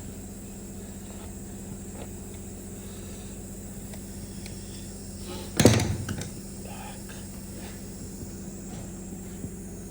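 Workbench handling noise: one sharp knock a little past halfway with a short rattle of smaller knocks after it, over a steady low hum.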